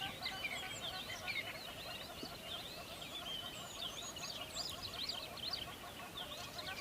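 A dense chorus of many birds chirping and calling at once, with quick, overlapping rising and falling chirps over a busy layer of lower repeated notes.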